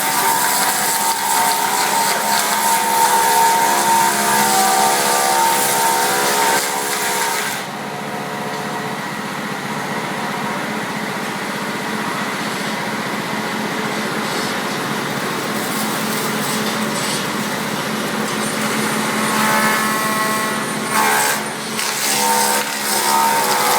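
Electric log-rounding machine running, its motors giving a steady whine under the hiss of the cutter working the log. The hiss drops away about seven seconds in, leaving a steadier machine hum, which swells again briefly near the end.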